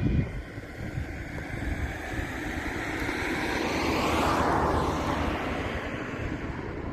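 A vehicle passing by: its noise swells to a peak about four seconds in, then fades, its pitch sliding slowly down.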